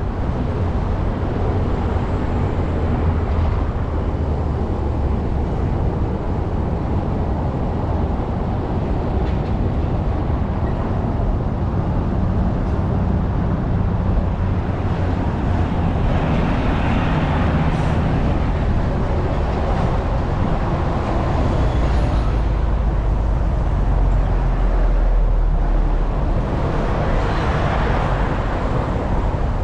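Steady rumble of wind and road noise on a bicycle-mounted GoPro while riding, mixed with passing street traffic. The noise swells higher twice, about halfway through and near the end.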